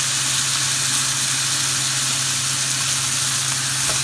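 Raw chicken pieces sizzling in hot oil with browned onions, ginger and curry powder in a stainless steel pan, a steady hiss, as the meat starts to sear. A steady low hum runs underneath.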